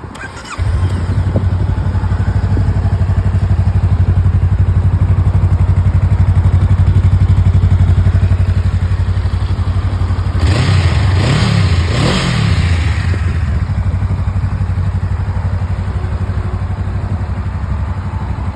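Honda Rebel 500's parallel-twin engine starting about half a second in and idling steadily. About ten seconds in it is revved twice, then drops back to idle.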